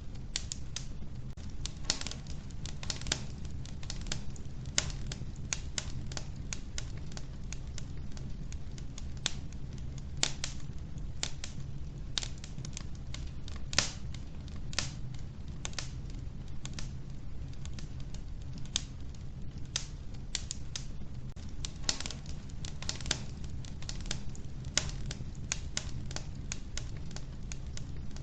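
Wood fire crackling in a wood-burning stove: irregular sharp pops and snaps, a few louder ones, over a steady low rumble of the burning fire.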